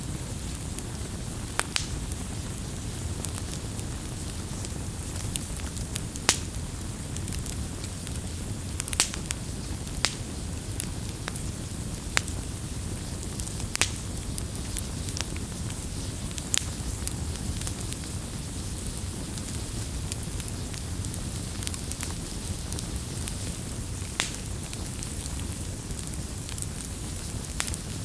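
A wood campfire burning, with a steady low rumble of flames and sharp crackles and pops every second or two as the wood burns.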